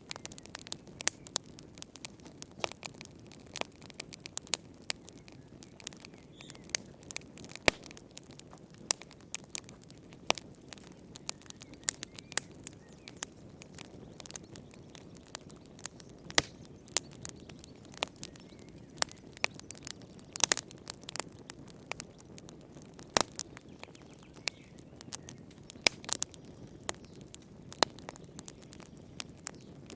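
Wood fire crackling in a fireplace: a steady low hiss and rumble with frequent sharp, irregular pops and snaps.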